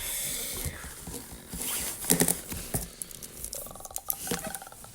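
Light rustling and handling noise with several sharp clicks, the loudest about two seconds in.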